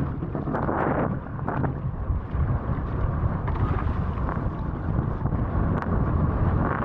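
Strong wind buffeting the microphone of a camera out on the water during wing foiling: a steady low rumble with a hissy rush of air and water, and a few brief louder surges, the strongest about a second in.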